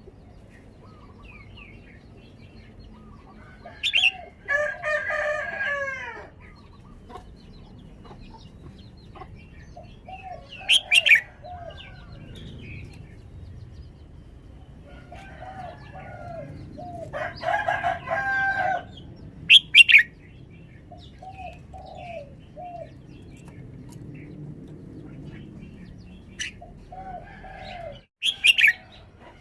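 Red-whiskered bulbul singing in short, loud, sharp phrases every several seconds. A rooster crows twice at a lower level, each crow lasting about a second and a half.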